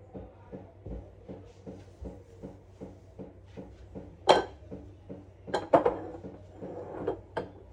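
Light rhythmic tapping, about three taps a second, with several sharp louder knocks and clinks in the second half, like dishes and utensils being handled.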